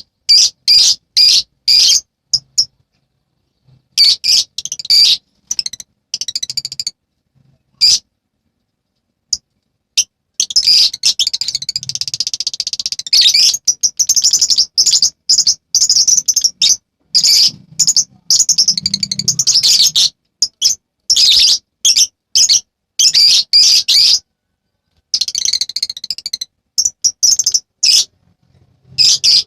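Lovebird chattering: rapid runs of shrill, high chirps broken by short pauses, with a long, dense run in the middle.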